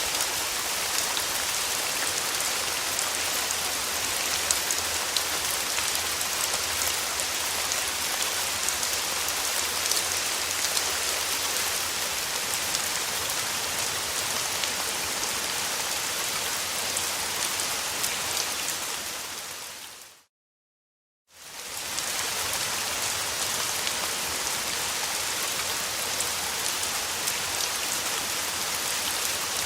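Steady rain falling on a surface, a dense hiss full of small drop ticks. About two-thirds of the way through it fades out to silence for about a second, then fades back in, the seam of a looped recording.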